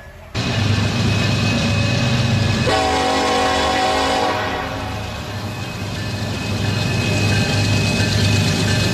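A train running with a steady rumble, cutting in suddenly just after the start. A horn sounds about three seconds in for a second and a half.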